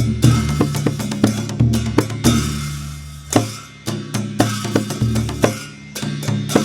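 Newar dhime drum beaten in a fast rhythmic pattern, deep drum tones with cymbal strokes over them; the strokes thin out briefly about three seconds in and again near the end before picking up.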